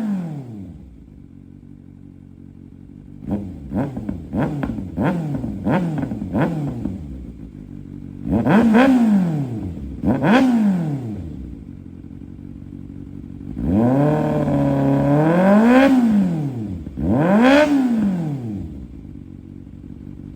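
2024 Kawasaki ZX-6R's inline-four running loud through an SC Project slip-on, with a straight link pipe in place of the factory mid muffler and the catalytic converter still fitted. It idles and is revved: first a quick run of about six short blips, then several bigger revs that rise and fall, one held steady for about three seconds, each dropping back to idle.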